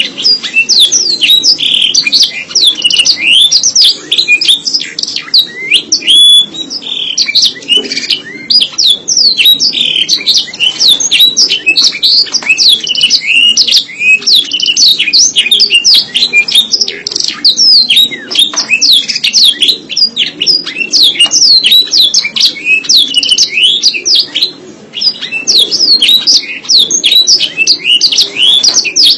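Domestic canary singing a long, unbroken song of fast, high chirps and trills, many notes sweeping quickly downward.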